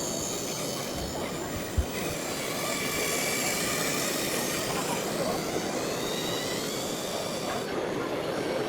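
Electric motors and gearing of radio-controlled model construction machines whining over a steady hum, the whine drifting gently up and down in pitch, with a single sharp knock a little under two seconds in.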